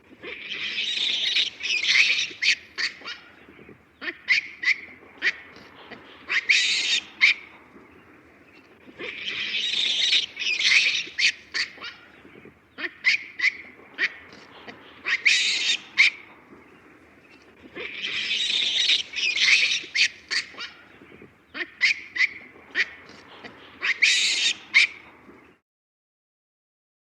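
An animal's harsh squawking calls mixed with sharp clicks, the same sequence of about eight seconds playing three times over, then cutting off suddenly near the end.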